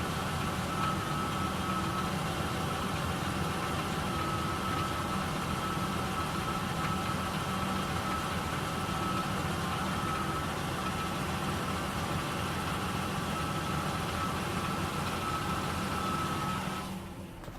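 2000 Ford Ranger's 4.0 L V6 idling steadily with a knock, a noise that shows up only at idle once the engine has run about 20 seconds and whose cause the owner has not found. The sound drops away near the end with a click.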